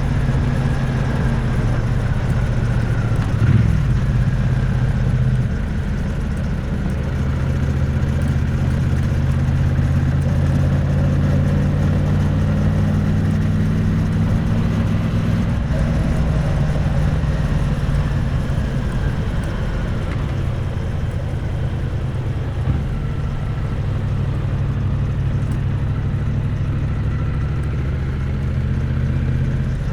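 Triumph Bonneville T100's parallel-twin engine and exhaust running under way, picked up close to the exhaust, holding a steady pitch that steps down around 5 s and again around 16 s. There is a brief thump about 3.5 s in.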